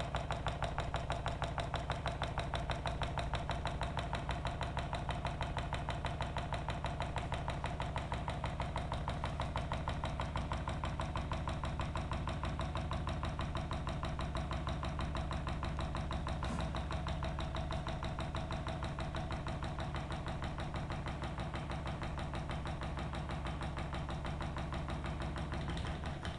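Homemade drink-can Stirling hot-air engine running, its moving parts clattering in a fast, even rhythm.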